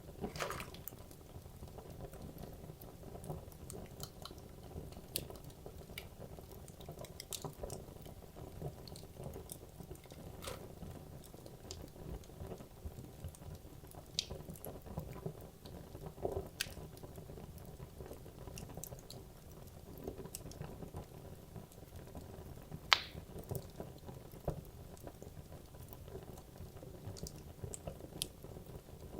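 Wood logs burning in a fireplace: a low steady hiss and rumble of the flames with scattered sharp crackles and pops, the loudest pop about 23 seconds in.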